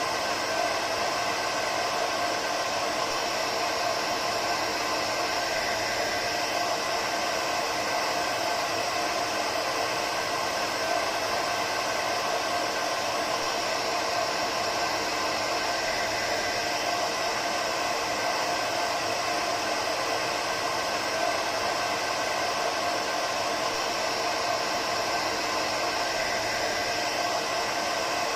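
Hair dryer running steadily: an even whooshing rush of air with a faint motor whine, unchanging throughout.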